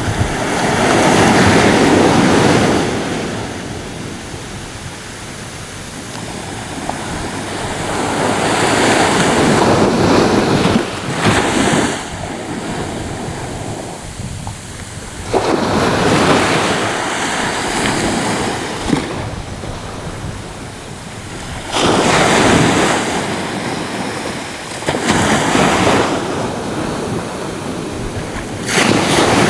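Ocean waves breaking on a shore, each wave swelling to a loud wash and then drawing back, about five of them in turn.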